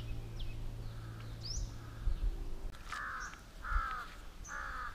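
A bird calling three times in quick succession in the second half, each call short and about a second apart, with fainter calls and high chirps from other birds before them.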